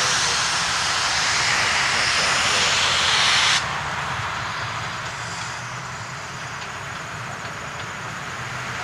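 Narrow-gauge steam locomotive hissing loudly with escaping steam, cutting off suddenly a little over a third of the way in. The train's steady low rumble continues after it, with a few faint ticks.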